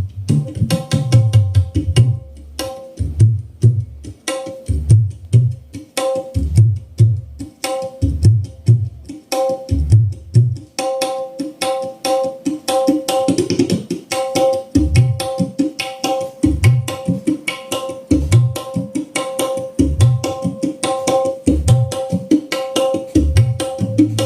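Music with hand-drum percussion played through a homemade 15-inch monitor speaker with a tweeter: deep drum strokes about once a second over quick, crisp higher hits and a steady pitched note.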